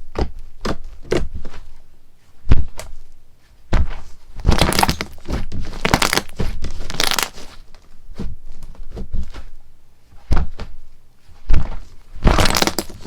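Slime being squeezed, pressed and poked by hand, giving irregular sharp snaps and pops with longer crackly stretches twice.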